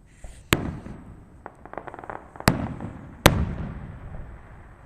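Fireworks going off: three sharp bangs, the first two about two seconds apart and the third under a second later, each trailing off in a rolling rumble, with a quick run of crackling pops between the first and second.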